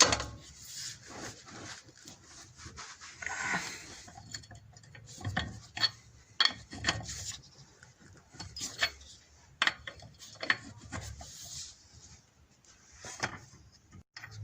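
Wrench undoing a car's wheel bolts: irregular metallic clicks and clinks with some scraping as the bolts are turned out.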